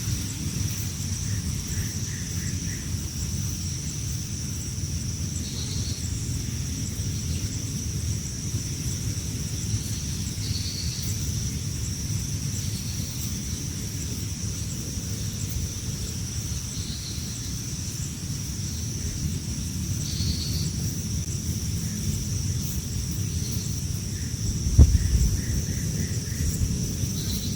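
Outdoor ambience of low wind rumble on the microphone under a steady high-pitched insect drone, with a few brief high chirps several seconds apart. There is a thump about three seconds before the end.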